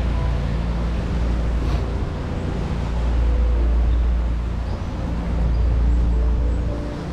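Wind buffeting the microphone as a low rumble that swells and dips, over a steady haze of riverside city noise.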